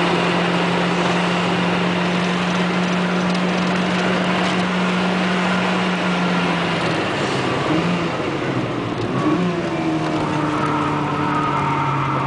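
Volkswagen Golf Mk2's engine pulling hard on a track lap, heard from inside the cabin. The engine note holds steady for about seven seconds, wavers and dips around eight to nine seconds in, then settles at a lower pitch.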